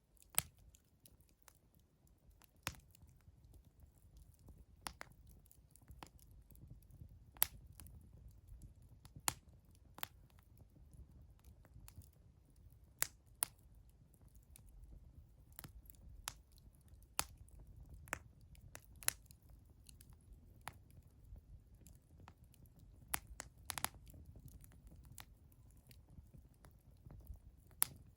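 Wood campfire burning, with irregular sharp crackles and pops roughly every second over a low steady rumble.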